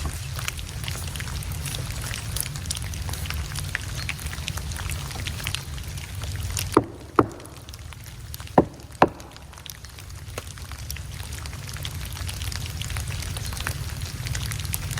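Steady low rumble with a dense crackle of small ticks. About seven seconds in, the rumble drops out for a few seconds and four sharp knocks sound in two quick pairs.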